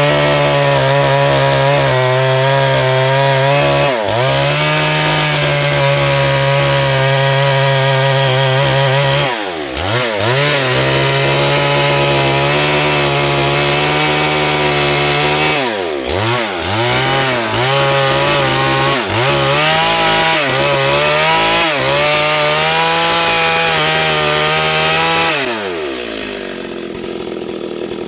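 Chainsaw running at full throttle cutting wood, its engine note sagging briefly under load several times. Near the end the throttle is released and the pitch falls away.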